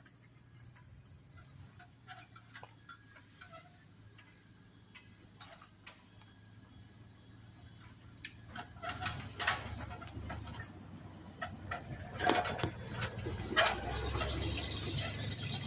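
A low, steady engine hum with scattered clicks and knocks, both growing louder about eight seconds in.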